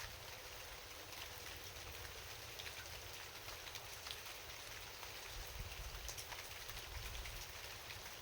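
Steady rain falling at night: an even hiss with many individual drops ticking irregularly throughout.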